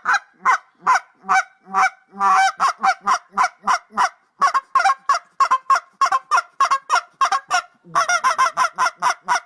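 A goose honking over and over in a rapid run of short honks, several a second, packed closer together near the end.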